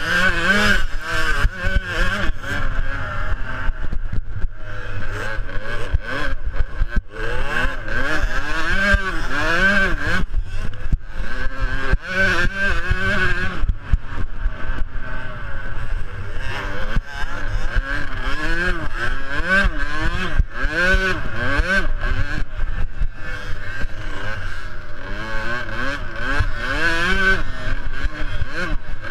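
Small youth motocross bikes racing, their engines revving up and down over and over as they accelerate and shift, several overlapping at once.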